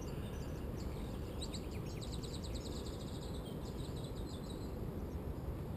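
A steady low outdoor rumble, with a small bird's rapid trill of high chirps from about a second and a half in until near the five-second mark.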